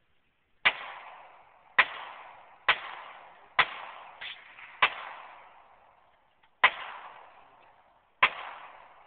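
Rifle gunshots: seven sharp shots about a second apart, each followed by a rolling echo that dies away, with a fainter shot in between.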